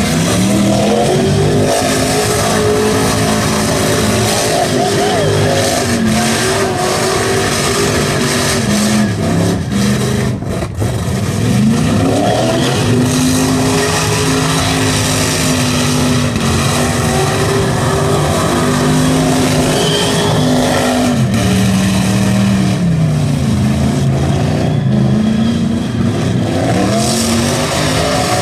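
Chevrolet V8 in a Subaru WRX STi held at high revs while the car skids on the pad, its pitch mostly steady and twice dropping and climbing back, with the rear tyres spinning. It is not running right, which the owner traced to spark scatter from a cracked distributor rotor.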